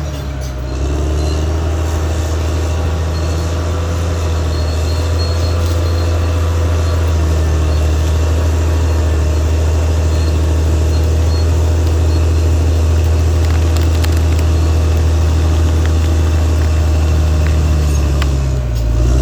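Caterpillar D6R XL bulldozer's diesel engine running steadily under load. Near the end the engine note sags briefly and then climbs back up.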